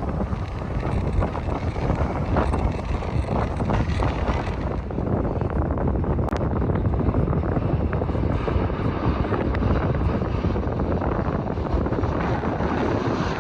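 Jet airliner engines rumbling as the plane comes in to land, mixed with wind on the microphone.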